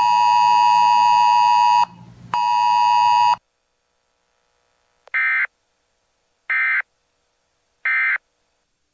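Weather radio alert tones: two long, steady electronic beeps, then, after a pause, three short warbling data bursts about 1.3 seconds apart. The three bursts are the SAME digital end-of-message code that closes a NOAA Weather Radio warning broadcast.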